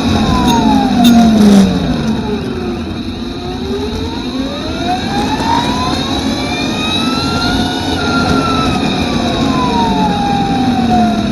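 Electric superbike's motor whining over rushing noise, the pitch falling for about three seconds as the bike slows, rising steadily for about five seconds as it accelerates, then falling again near the end. A few brief knocks sound about a second in.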